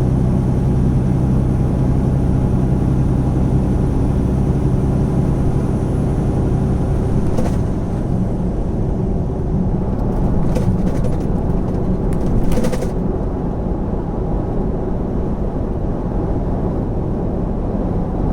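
Semi-truck's diesel engine and tyre noise heard from inside the cab, a steady engine hum. About seven seconds in the engine note fades, leaving a rougher road rumble, with a few brief clicks later on.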